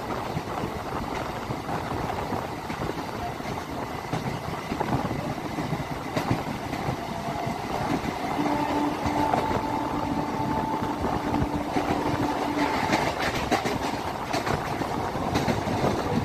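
Running noise of a MEMU electric local train heard from aboard, at an open door: a steady rush of wheels on rail and wind. A steady two-note tone holds for about four seconds in the middle, and a run of sharp clicks comes over the last few seconds.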